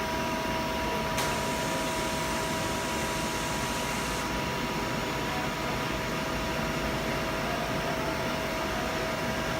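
CNC turning centre running with its chuck spinning at 1000 RPM: a steady machine hum and hiss with two constant whining tones.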